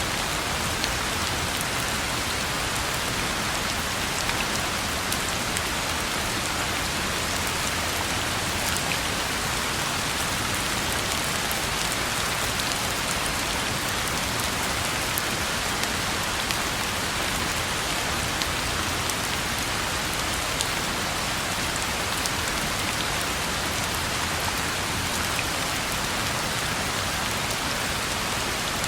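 Steady rain falling on a road surface: an even hiss of rain with scattered individual drop ticks, unchanging throughout.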